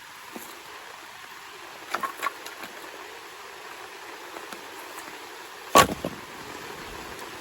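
Steady rain hiss, with a few sharp clicks about two seconds in and one loud knock near the end.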